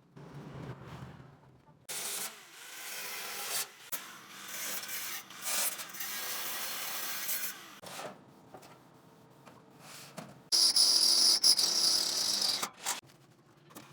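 Workshop hand-tool metalworking noise in separate rasping, scraping stretches that start and stop abruptly. The loudest, highest-pitched stretch comes about ten seconds in.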